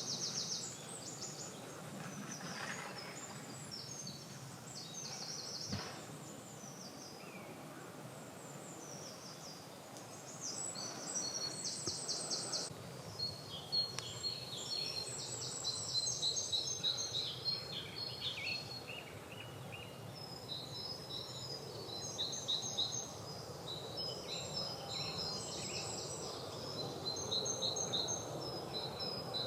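Spring chorus of several songbirds singing at once, with overlapping phrases and rapid trills that come and go, over a low steady background rumble.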